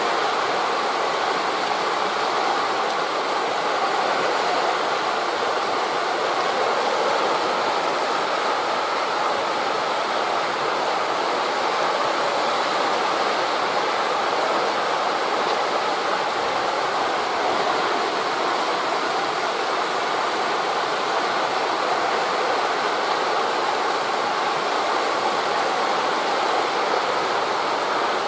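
Steady rushing of surf on a beach mixed with wind through the trees: an even wash of noise without distinct wave breaks.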